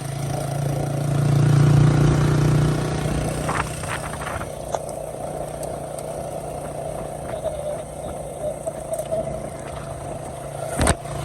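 Motorcycle engine running steadily, swelling a little about a second or two in, with a sharp knock near the end.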